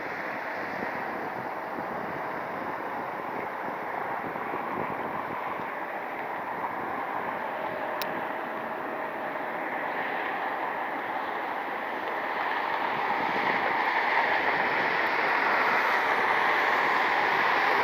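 Airbus A330 jet engines at takeoff power during the takeoff roll: a steady, distant jet roar that grows louder over the last several seconds as the airliner accelerates down the runway.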